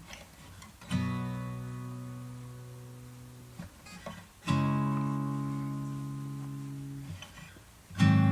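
Background music: slow acoustic guitar chords, struck three times about three and a half seconds apart, each left ringing and fading.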